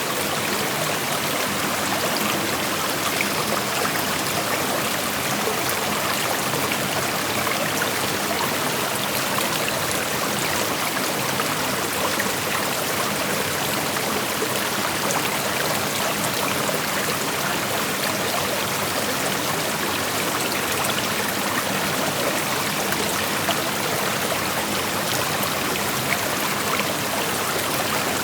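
A shallow creek flowing and rushing steadily over stones, a continuous even wash of water noise with small trickles and splashes in it.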